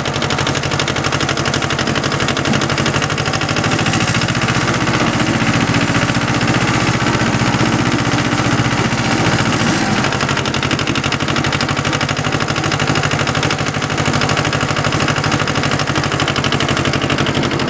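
Small 18-horsepower two-cylinder Yanmar diesel tractor engine running steadily with a rapid, even clatter.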